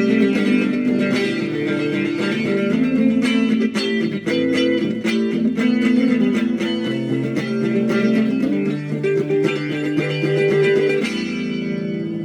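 Solo guitar playing a slow improvised piece: picked melody notes over held low notes. About eleven seconds in the playing stops and the last chord rings out.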